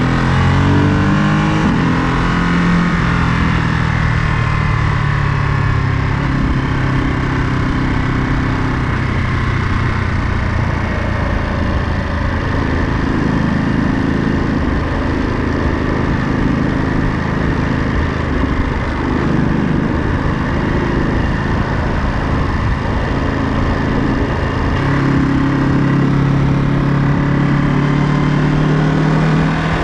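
Ducati Monster 937's L-twin engine running while riding, its pitch shifting with speed and gear changes over steady wind and road noise, then settling into a steady lower note near the end.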